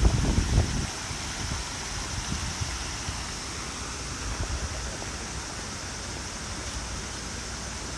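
Steady rushing noise with a faint low rumble.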